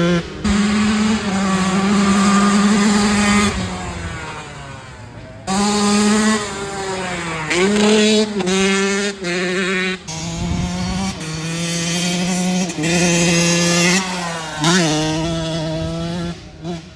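Dirt bike engine revving hard and easing off over and over as it is ridden, its pitch climbing and dropping with the throttle and gear changes. It goes quieter for about a second partway through, and the sound jumps abruptly several times.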